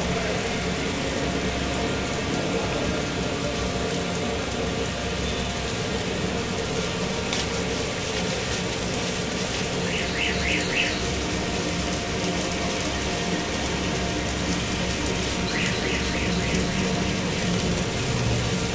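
Marinated chicken pieces sizzling steadily in oil on a flat-top steel griddle.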